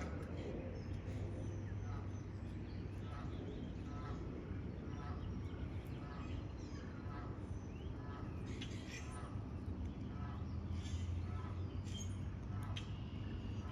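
Outdoor birds calling: a run of short repeated calls, with louder calls about nine and twelve seconds in, over a steady low hum.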